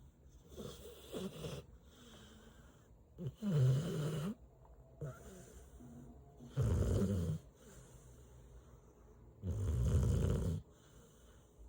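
Mixed-breed dog snoring in its sleep: a soft snore, then three loud, long snores about three seconds apart, with quiet breathing between.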